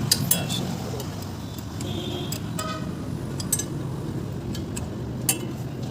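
Engine running with a steady low rumble, with several sharp metallic clicks and knocks scattered through it.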